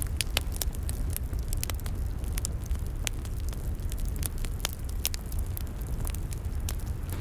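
Log fire crackling and popping, with many sharp irregular snaps over a steady low rumble.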